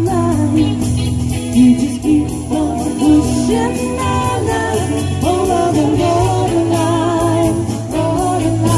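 Live band playing an 1980s pop-rock cover, with a woman singing lead in long, wavering held notes over bass and drums.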